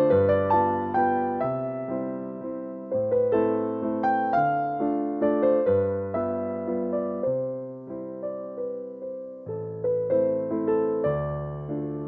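Background music: a slow solo piano waltz, with struck notes fading away in a steady, lilting rhythm.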